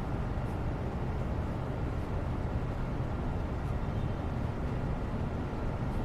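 Steady low rumbling background noise, even throughout, with a couple of faint light ticks.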